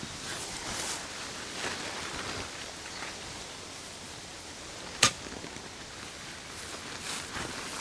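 Tent being pitched: fabric rustling and handling noises, with one sharp click or snap about five seconds in.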